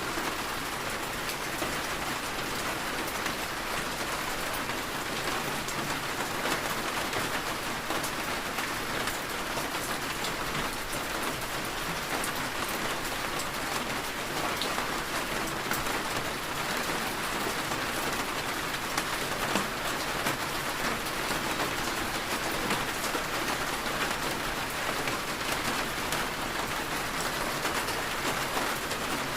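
Steady rain falling on a surface, an even hiss of many small drops with no breaks or changes.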